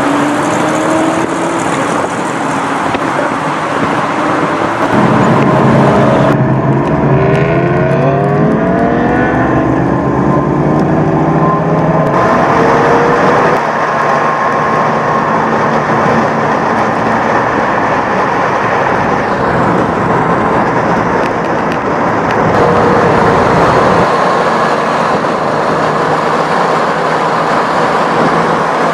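Panther Kallista's engine heard from on board, pulling away and accelerating with rising revs through the gears, then running steadily at speed.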